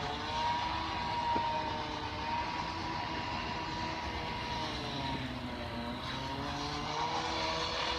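A steady engine drone, several held tones that slowly waver up and down in pitch.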